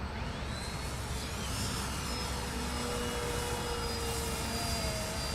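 Electric RC biplane's brushless outrunner motor and propeller whining in flight, the pitch gliding up and down as the throttle and distance change, over a steady low rumble.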